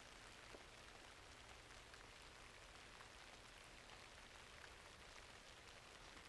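Faint, steady rainfall: an even hiss with scattered small ticks of drops.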